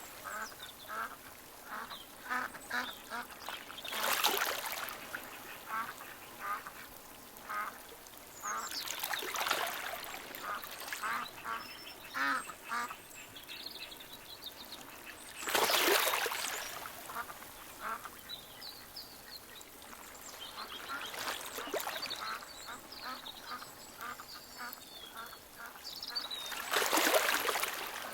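Water birds calling in rapid runs of short calls. Behind them, a rushing swell of noise rises and falls about every five to six seconds.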